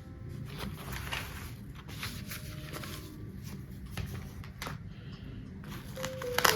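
Steady rain hiss, with a few soft taps and rustles of things being handled. Music notes come back in near the end.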